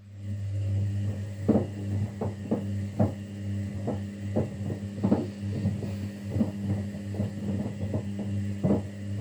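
Kunft washing machine starting up abruptly after a click: a steady low hum with irregular soft knocks over it.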